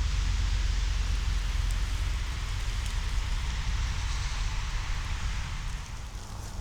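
A rushing noise that swells and then eases near the end, over a steady low rumble.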